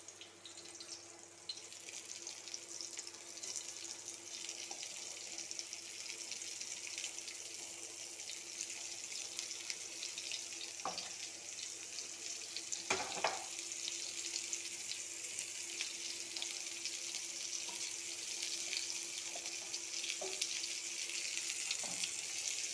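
Spice-coated bitter gourd strips shallow-frying in hot oil: a steady sizzle with fine crackling that starts as the strips go into the pan. Two brief knocks about halfway through.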